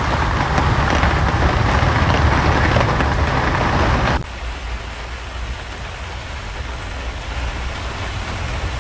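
Heavy rain falling with a dense, steady hiss. About four seconds in it changes abruptly to a quieter, duller rain sound that is mostly low rumble.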